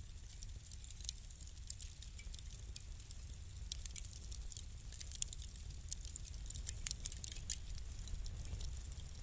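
Wood fire crackling: irregular sharp pops and snaps over a low steady rumble, the pops coming thickest in the second half.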